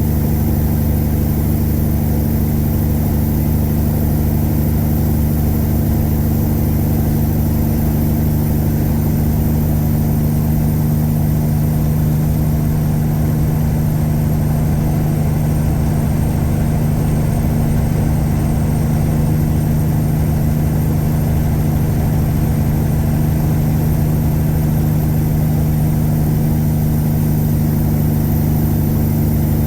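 Caterpillar 3406E inline-six diesel in a 1999 Freightliner Classic truck running steadily under way, a constant low engine drone with a slight dip and recovery in engine speed midway.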